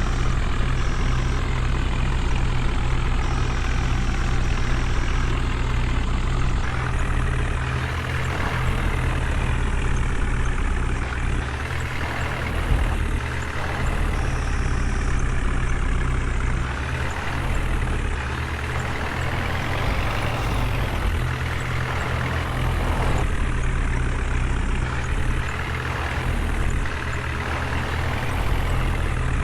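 Heavy diesel engine running steadily with a deep low hum, the engine noise swelling and easing several times as the load or throttle changes.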